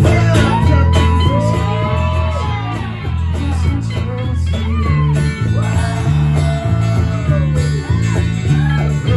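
Country-rock band playing an instrumental break: a lead guitar solo with bending, sliding notes over a pulsing bass line.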